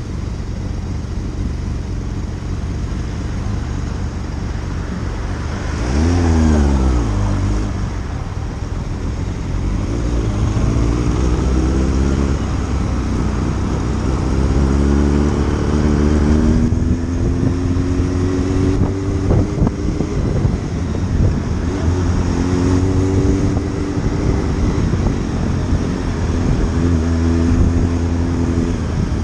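Motorcycle engine on the road. Its pitch drops sharply about six seconds in, then climbs several times, each rise broken off by a gear change, over steady wind rush.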